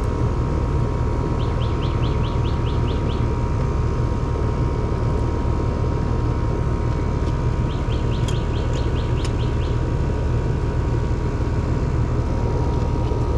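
Air conditioner outdoor condensing unit running steadily, a low hum with a steady tone above it. Twice, a rapid run of high chirps, about six a second for under two seconds, sounds over it.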